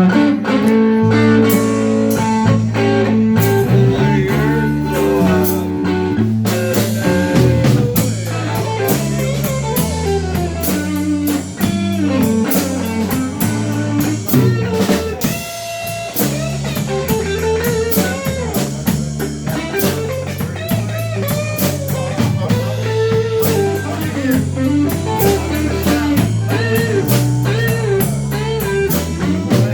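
Blues band playing an instrumental passage: guitar lines over bass guitar and a drum kit, with no singing.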